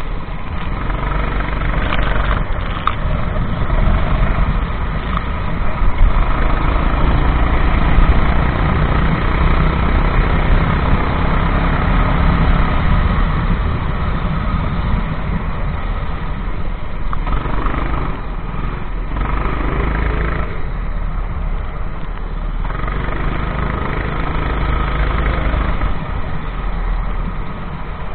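Racing kart engine running hard during a race, a continuous loud engine sound that swells and eases as the kart goes round the track.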